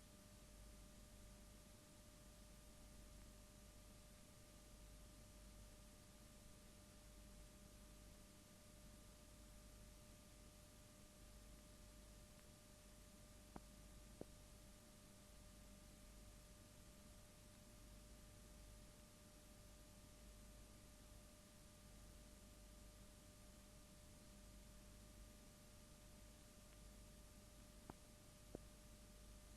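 Near silence: faint steady hiss and hum with a thin steady whine, broken by a couple of pairs of tiny clicks about halfway through and near the end.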